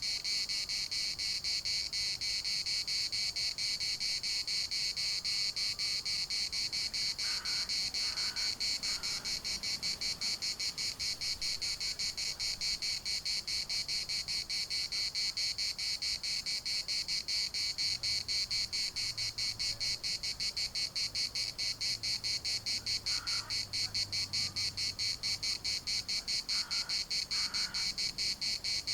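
Cicadas in chorus: a steady, rapidly pulsing high buzz.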